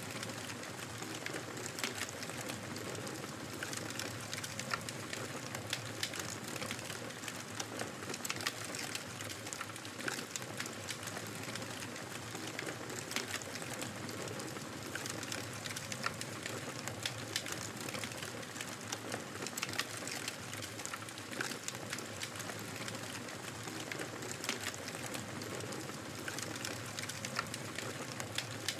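Wood fire crackling steadily, with a constant hiss and many small sharp pops and snaps scattered throughout.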